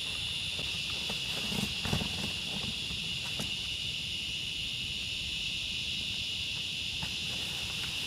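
Steady high-pitched insect chorus in a forest, unbroken throughout, with a few soft steps or rustles in the first half.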